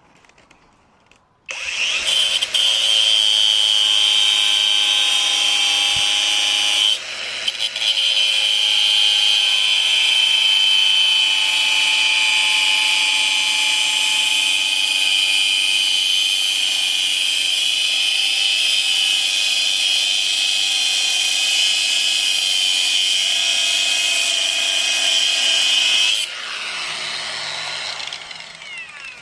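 Cordless angle grinder cutting metal with a loud, steady high whine. It starts about a second and a half in, drops out briefly around a quarter of the way through, runs on, and near the end is switched off and winds down with a falling pitch.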